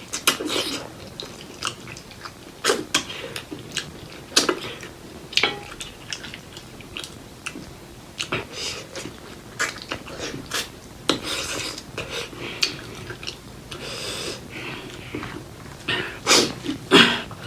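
Close-miked eating of pork leg curry and rice: wet chewing and mouth clicks at irregular intervals, mixed with scrapes and clinks against the plate.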